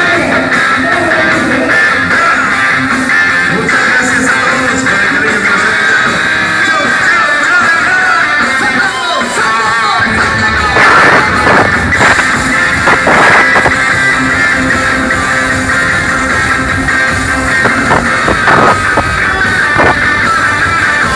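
Live cuarteto band music played loud. The bass and drums come in strongly about halfway through.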